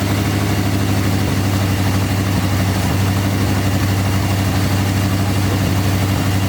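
1973 Dodge D100's 318 V8 idling steadily, running smoothly just after its first start from sitting.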